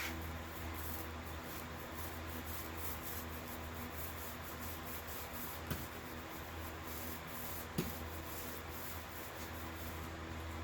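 Fast rhythmic scraping strokes, several a second, from hand work with fiberglass resin (mixing a fresh batch or working it into chopped strand mat), over a steady low hum.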